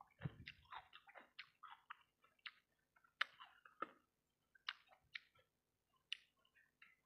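Faint, close-miked chewing of sauce-coated fried rice balls: irregular wet mouth clicks and smacks, a few a second, with no steady sound underneath.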